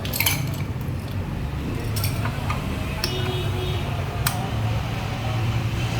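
A few separate sharp metallic clinks, like hand tools or metal parts being set down and handled, over a steady low hum.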